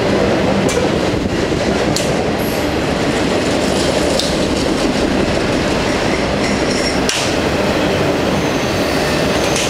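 Freight train of multilevel autorack cars rolling past: a steady, loud rumble of steel wheels on rail, broken by a few sharp clicks.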